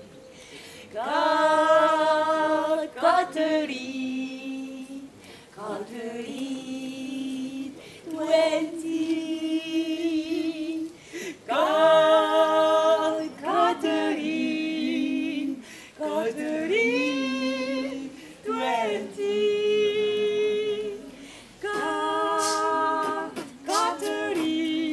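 Voices singing unaccompanied, in long held phrases broken by short pauses.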